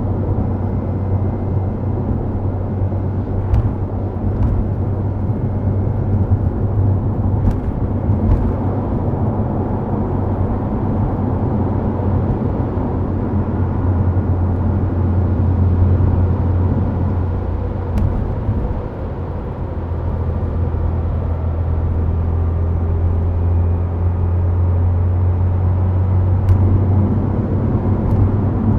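Subaru WRX STI Spec C's turbocharged flat-four, fitted with an aftermarket A-RM muffler, running with a steady low drone at expressway speed over continuous tyre and road noise. A few sharp knocks from the road surface are heard, and the drone eases briefly about two-thirds of the way through before picking up again.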